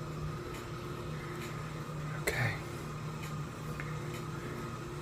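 A few faint clicks of buttons being pressed on an exercise bike's console, over a steady low mechanical hum.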